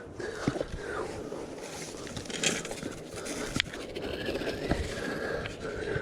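Scraping and rustling handling noise with a few sharp clicks, as hands work at a tangled crab snare to free a hooked dogfish.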